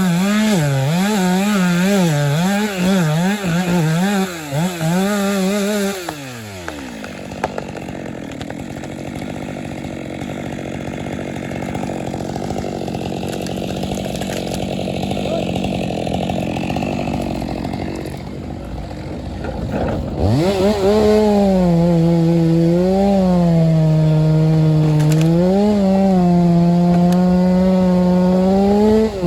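Two-stroke chainsaw running at full throttle, its pitch dipping again and again as it bogs under load cutting timber. About six seconds in, the revs fall away to a lower, quieter running noise. About twenty seconds in, it revs back up to full throttle and cuts on.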